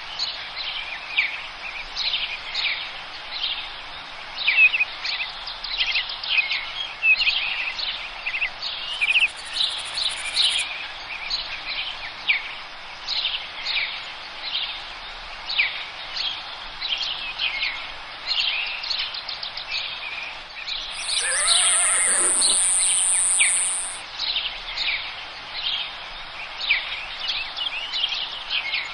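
A forest bird chorus: many birds chirping and singing in quick overlapping calls over a steady background hiss. A high, thin steady buzz sounds twice, briefly near the middle and louder about two-thirds through, together with one long falling call.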